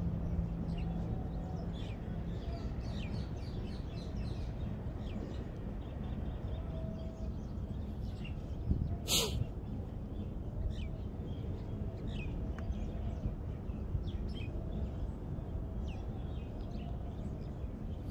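Small birds chirping with many short, high chirps scattered throughout, over a steady low background noise. A single sharp click stands out about nine seconds in.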